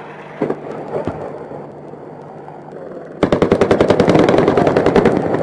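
A burst of rapid automatic gunfire, about ten shots a second, starts a little over three seconds in and runs on for about two seconds, typical of an AH-64 Apache's M230 30 mm chain gun. Before it there is a steady background rush with a few clicks.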